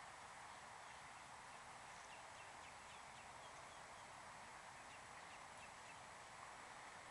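Near silence: steady outdoor background hiss with faint, scattered chirps of distant birds.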